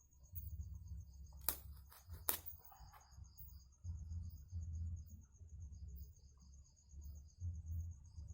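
Crickets chirping steadily in a rice field at night, with uneven low rumbling and two sharp clicks a little under a second apart about a second and a half in.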